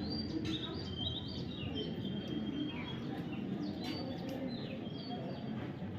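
Parrot chirping: a string of short, high chirps and quick whistled notes, over a steady low background noise.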